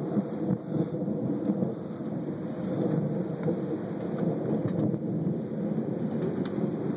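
Thunder rumbling on and off over steady rain, picked up on a phone's microphone.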